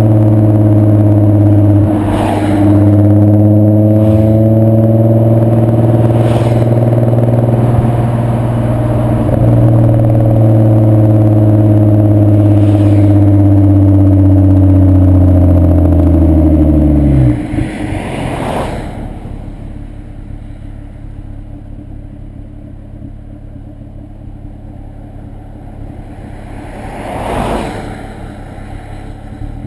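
VW 2.8 VR6 24V engine through a straight-through Milltek non-resonated exhaust, running loud with a steady note whose pitch sinks slowly. About two thirds in, the note falls away sharply and the car runs on much quieter, with a few brief whooshes.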